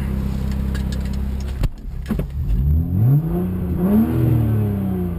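BMW 135i's turbocharged straight-six idling through a muffler-less prototype stainless exhaust. A sharp thump comes about a second and a half in, then the engine rises in pitch as the car pulls away and eases off again near the end.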